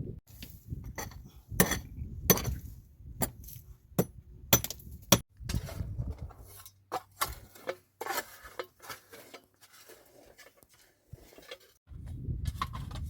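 Metal cookware and utensils clinking and knocking: a run of sharp clinks over the first five seconds, then lighter, scattered taps.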